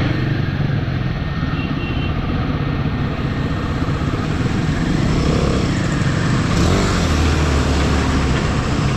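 Royal Enfield motorcycle engines idling steadily while stopped, with a deeper engine hum swelling for a second or two near the end.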